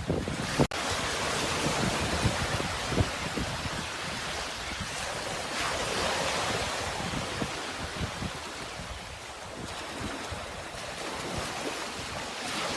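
Sea waves washing in with wind, the surf swelling and easing, with a brief dropout just under a second in.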